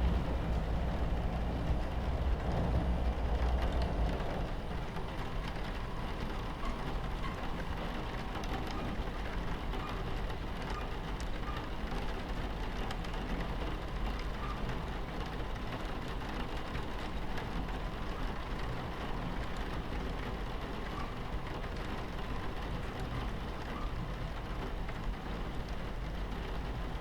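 Train carriage ambience: the steady low rumble of a train running on its tracks, with rain on the window over it. The rumble is louder for the first few seconds, then settles.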